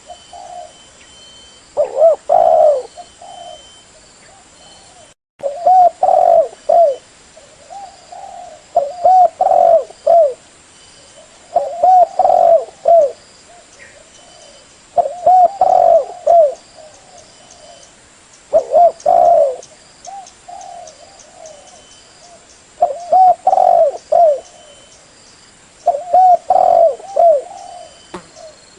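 Spotted dove (tekukur) cooing: a phrase of a few low, rounded coos repeated about every three to four seconds, the kind of call used to lure other spotted doves.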